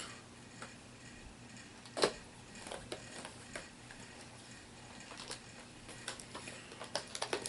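Irregular light clicks and taps of small plastic collectible miniatures and their packaging being handled, with a sharper click about two seconds in and a quick run of clicks near the end.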